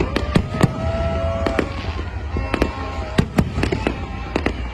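Aerial fireworks exploding in rapid, irregular succession: sharp bangs and cracks, several a second, over a continuous low rumble.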